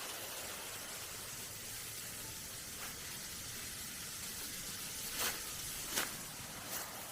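A waterfall at a hot spring: steady rushing, hissing water. A couple of faint clicks come about five and six seconds in.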